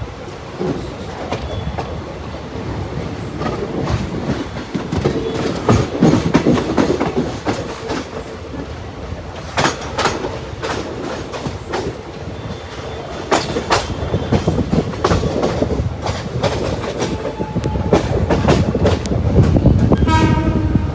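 Express passenger train running on the track: a steady rumble with the clickety-clack of wheels over rail joints, heavier in stretches, and a short pitched tone near the end.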